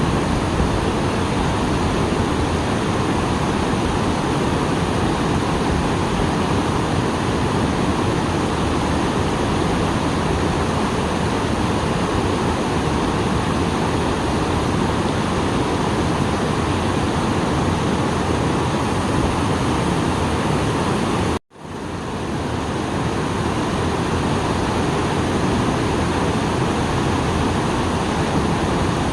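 Small waterfall rushing steadily, running full after rain. About 21 seconds in, the sound cuts out sharply for a moment and fades back in.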